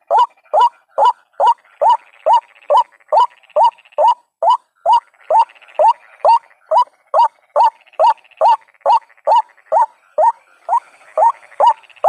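White-breasted waterhen giving its ruak-ruak lure call: a fast, even series of short loud notes, about three a second, with a fainter chattering underneath at times.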